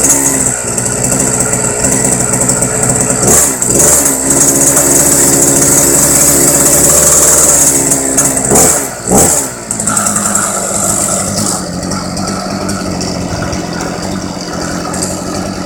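Mach 1 scooter's engine running on its first startup: revved up about three seconds in and held high for several seconds, dropping back near nine seconds, then idling steadily.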